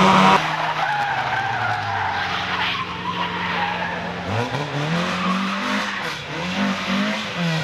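Rally car engine at high revs that lifts off about half a second in, runs lower and fades, then picks up again about four seconds in with the revs rising and falling.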